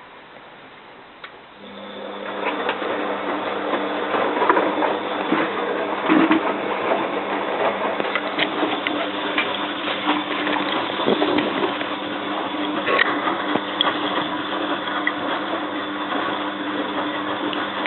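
Bosch WFF2000 washing machine starting up about two seconds in and then running steadily through a rinse: a motor hum with a rattling, clicking wash sound over it.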